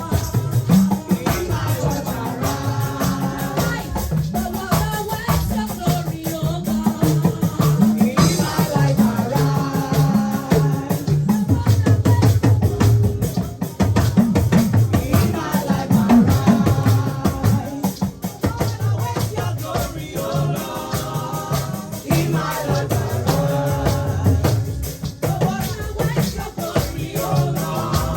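Gospel praise music with drums, shaker percussion and a steady beat, with singing over it.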